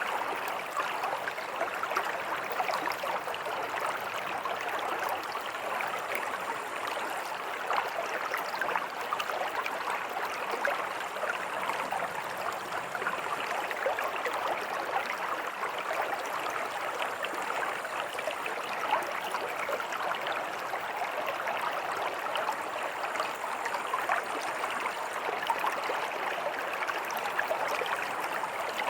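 River water flowing: a steady, even rush with many small splashes through it.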